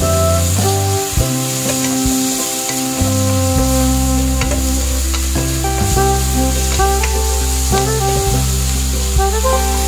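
Onion, garlic and meat sizzling as they are sautéed in a pan, with a wooden spatula stirring and scraping through them. Background music with sustained notes and a bass line plays over it.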